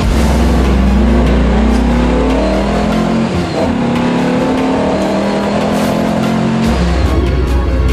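Classic car's engine under hard acceleration, heard from inside the cabin, its pitch breaking twice at gear changes, about three seconds and about six and a half seconds in.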